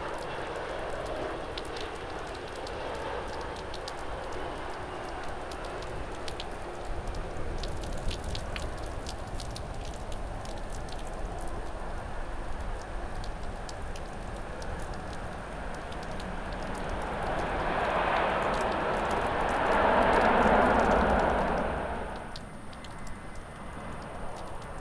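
Steady hiss of heavy rain with many scattered raindrop taps close to the microphone, over distant jet airliner noise. About two-thirds of the way through, the jet noise swells to its loudest, then cuts off abruptly shortly before the end, leaving the rain.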